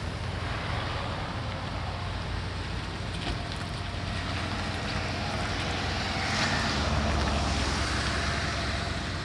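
A steady low engine rumble under a continuous hiss of wind or moving-water noise, growing a little louder and deeper about two-thirds of the way through.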